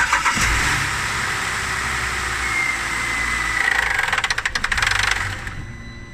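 2008 Holden Commodore SV6 making the unexplained odd noise: a loud mechanical whirr with a faint whistling tone, breaking into a fast rattle about four seconds in, then cutting off suddenly near the end.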